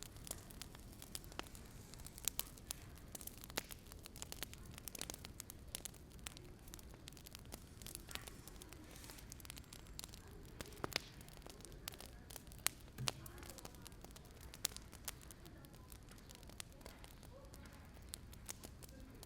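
Wood fire crackling quietly, with sharp, irregular pops and snaps over a low hiss.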